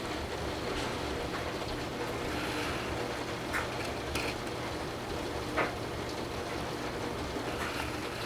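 Torrential rain pouring down steadily, heavy enough to overflow the gutters, with a few sharper splashes of water about halfway through.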